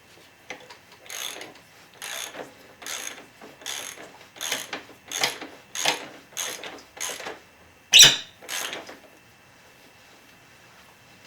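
Socket ratchet clicking in about a dozen short strokes, roughly one every two-thirds of a second, as the 22mm swing arm pivot nut is run off. A single sharper, louder click comes near the end.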